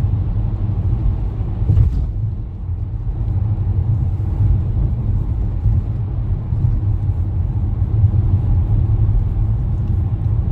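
Steady low rumble of a car on the road, heard from inside the cabin: engine and tyre noise at cruising speed.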